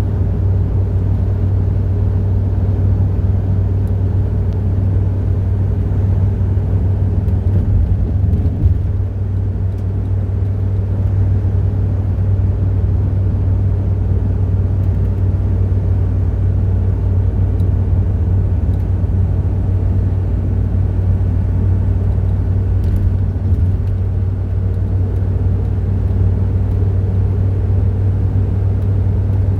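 Car engine and road noise running steadily, a strong low drone with no change in speed.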